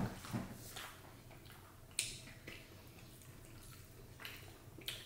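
Quiet eating sounds: chewing and wet mouth smacks with scattered small clicks, a sharper one about two seconds in.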